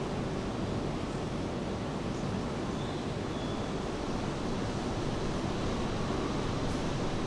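Steady rain together with ocean surf, an even wash of noise without distinct drops or breaking waves.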